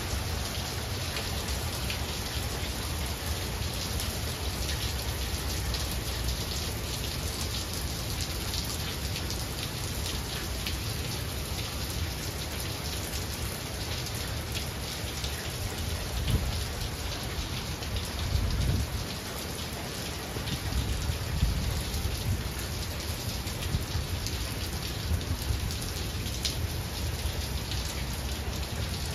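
Steady rain falling and pattering on the carport and driveway, with sharp drop ticks throughout. A few low rumbles rise out of it a little past the middle.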